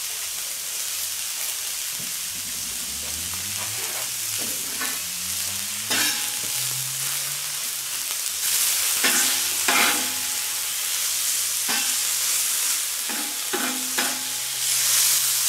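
Diced bacon and onions sizzling in oil on a steel fire plate, with a metal spatula stirring them and scraping against the plate several times in the second half.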